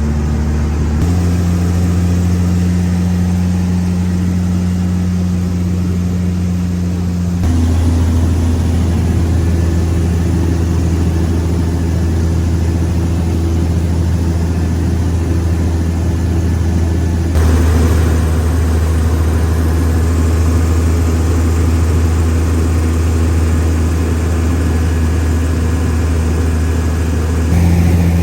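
Engine of a small passenger boat under way, a loud steady drone. Its tone shifts abruptly a few times: about a second in, about a quarter of the way through, past the middle and near the end.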